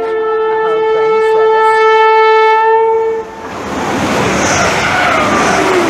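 Class 180 Adelante diesel multiple unit sounding its horn in one long held note for about three seconds, then the loud rush of the train passing through the station.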